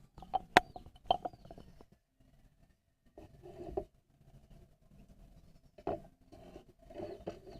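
Small sharp clicks and light rustling of a net-weaving needle and thread being handled as braiding begins, the clicks bunched in the first second and a half.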